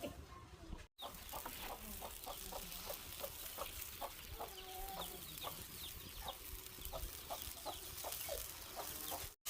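Chickens clucking, many short calls in quick irregular succession, with fainter high chirps among them.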